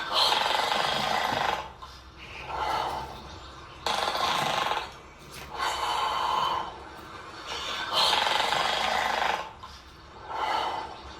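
Snoring: raspy breaths in a steady rhythm, about one every two seconds, alternating longer and shorter.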